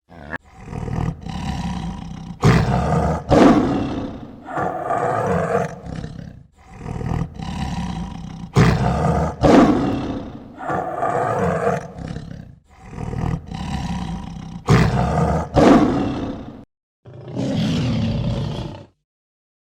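A big cat, lion or tiger, roaring and growling loudly and repeatedly. The calls come in about three waves, each opening with two strong roars close together.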